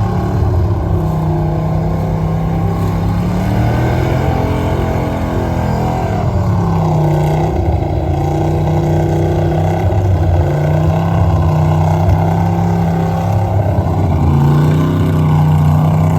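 Truck engine running hard, its revs rising and falling again and again.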